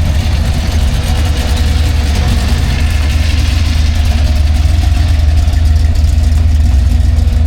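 A vehicle engine running steadily with a deep, low rumble.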